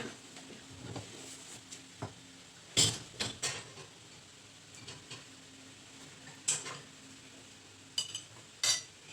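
Dishes and cutlery being handled: a few scattered knocks and short ringing clinks of tableware, spaced a second or more apart, over a faint steady hum.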